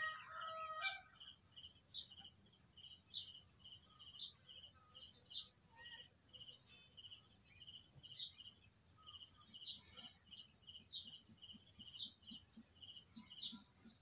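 Faint bird chirping over and over: a steady run of short high notes, about three a second, with a higher upswept note roughly once a second.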